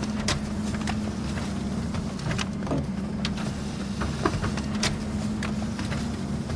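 Office printer running: a steady motor hum with irregular sharp clicks and ticks from the paper-feed mechanism.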